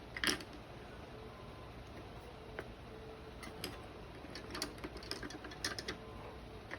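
Scattered light clicks and taps, the sound of watercolour painting tools being handled, against a low steady hum: one louder click right at the start, then a run of lighter irregular taps in the second half.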